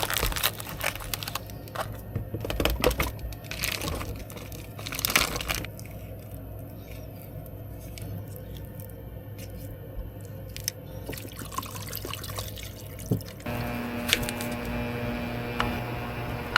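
Water running and splashing, with drips, then a steady electric hum that starts about thirteen seconds in.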